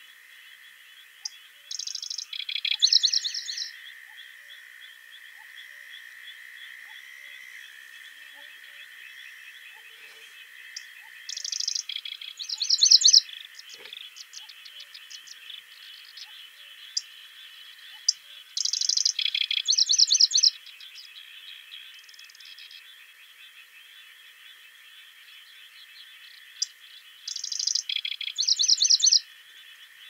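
A songbird singing the same short phrase of rapid high notes four times, about eight seconds apart, over a steady background chorus of calling animals.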